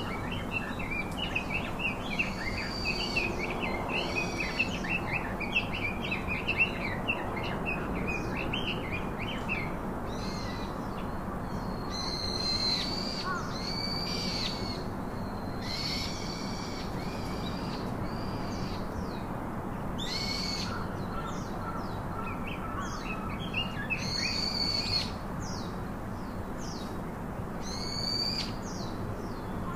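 Birds calling: quick high twittering during the first several seconds, then a short call repeated about every four seconds, over a steady low background noise.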